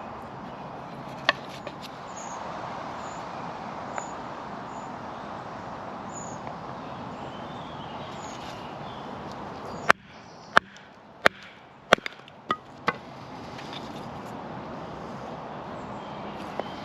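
Six sharp knocks of a knife chopping into wood, bunched together a little over halfway through, with a few single clicks earlier, over a steady outdoor hiss.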